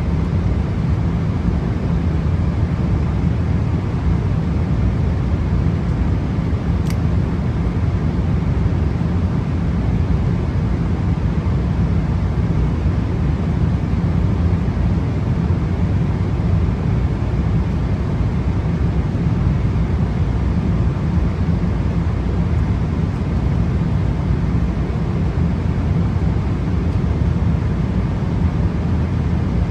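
Steady cabin noise of a Boeing 777-300 airliner in flight: an even, low rush of engines and airflow that stays constant throughout, with one faint click about seven seconds in.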